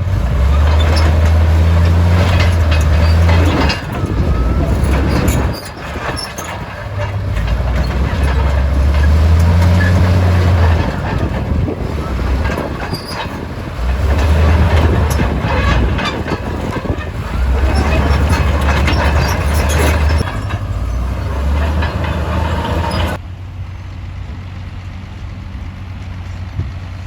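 Komatsu D68E crawler bulldozer working rock: the diesel engine surges under load every few seconds over a steady clanking of the steel tracks and grinding of rock. Near the end the clatter stops and only a steadier, duller engine note remains.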